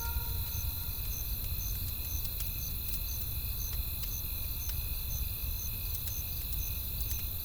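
Campfire crackling, with occasional sharp pops over a low steady rumble, and crickets chirping about twice a second. A held musical tone fades out in the first second.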